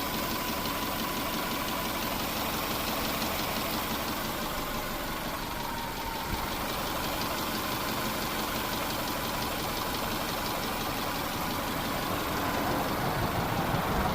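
2004 Subaru Impreza's 2.5-litre flat-four boxer engine idling steadily just after a timing belt replacement, running smoothly with nothing wrong.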